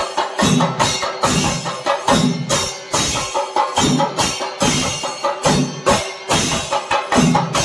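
Kerala chenda melam: a drum ensemble beating a fast, driving rhythm of sharp stick strokes, with a steady ringing of cymbals underneath.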